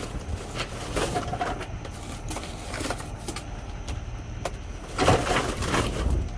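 Items being handled and rummaged through in a dumpster: scattered rustles, crinkles and light knocks, loudest in a stretch of rustling about five seconds in, over a steady low rumble.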